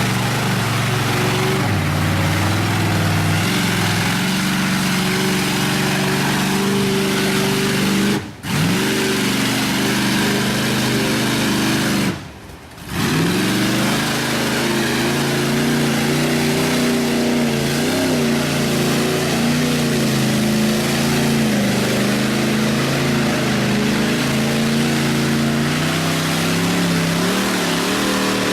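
Chevy Z71 pickup's engine revving hard under load as the truck drives through a deep mud hole, its pitch rising and falling with the throttle. The sound drops out sharply twice, briefly about eight seconds in and for nearly a second about twelve seconds in.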